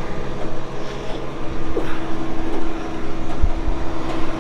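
Combine harvester's diesel engine running steadily close by, with a single thump about three and a half seconds in.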